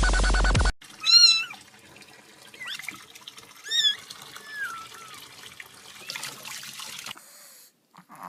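Electronic dance music cuts off, then a cat meows: two loud arched meows about two and a half seconds apart, with a few softer, shorter cries between them over a low steady hiss.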